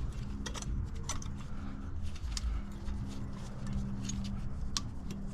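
Scattered light metallic clicks and taps of worn front brake pads and their slide clips being worked out of a truck's caliper bracket, over a steady low hum.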